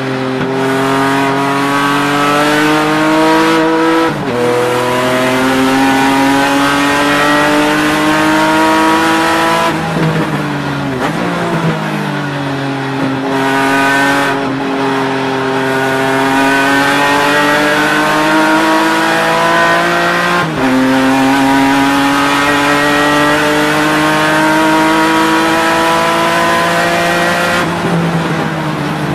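BMW E36 race car engine heard from inside the cockpit under hard acceleration, its pitch climbing steadily with sudden drops at upshifts about 4, 10 and 20 seconds in. After the second shift the pitch sags further, as the car slows for a corner, before climbing again.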